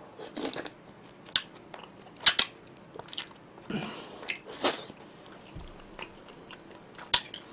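Close-miked chewing of spicy soup tteokbokki, chewy rice cakes in broth: irregular wet mouth clicks and smacks, the loudest about two seconds in.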